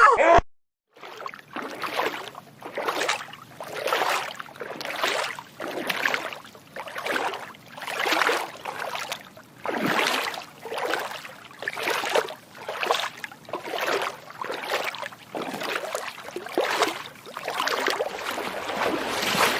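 Water lapping or sloshing in rhythmic swells, about one a second.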